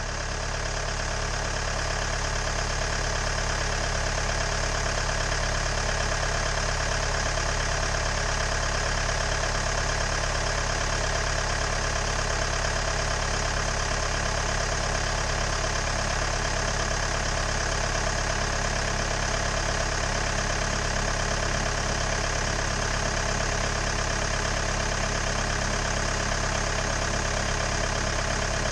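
Hyundai Maxcruz engine idling steadily at 190,000 km, with no change in revs.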